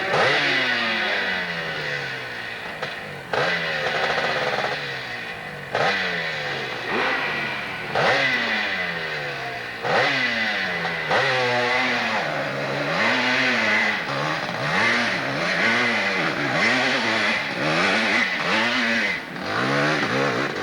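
Hill-climb motorcycle engine revving hard. For the first ten seconds the pitch sinks, then jumps back up about every two seconds; after that it rises and falls in quick surges about once a second.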